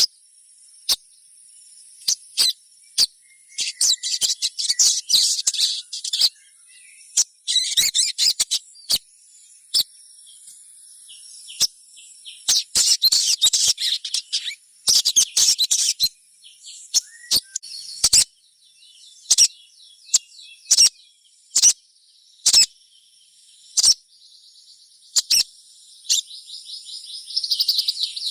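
Young sogon (little spiderhunter) chirping: sharp single high chip notes at irregular intervals, with several bursts of rapid twittering, around five seconds in, at eight seconds, twice between thirteen and sixteen seconds, and again near the end. A faint steady high whine runs underneath.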